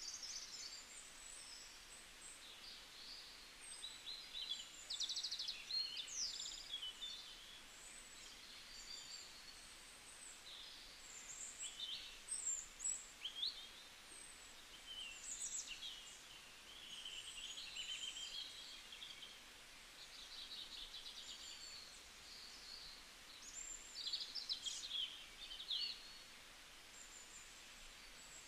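Birds chirping and twittering: many short, high calls and quick trills, coming and going throughout over a faint background hiss.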